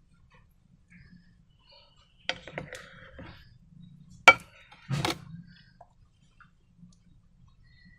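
A few knocks and clinks of hard objects being handled, like a utensil or container set down. There is one knock about two seconds in with some rustling after it. A sharp, loud click comes a little past four seconds, and another knock with a short clatter follows about a second later.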